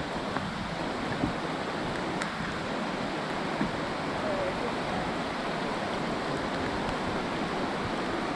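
Steady rush of water, an even hiss with no let-up.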